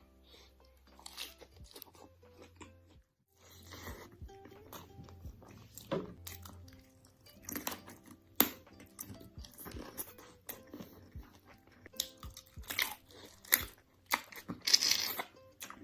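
Crunchy food being bitten and chewed close to the microphone: irregular crisp crunches, with the loudest and most frequent coming in the last few seconds.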